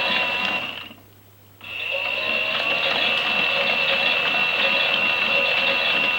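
Small electric motor of a toy Miele washing machine running steadily with a high whine as the drum turns; it stops about a second in and starts again about half a second later.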